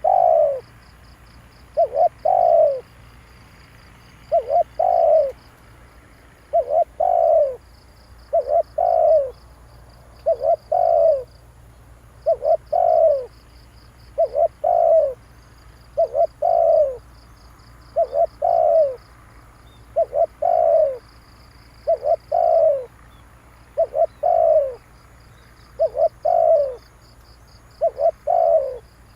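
Spotted dove cooing: a short coo followed by a longer falling coo, repeated about every two seconds. This is the call used to rouse a decoy dove.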